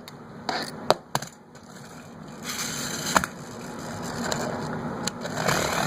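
Pull-back toy car: a few sharp clicks as it is handled and wound back, then the whir of its wheels and spring motor as it runs off fast, growing louder over the last few seconds.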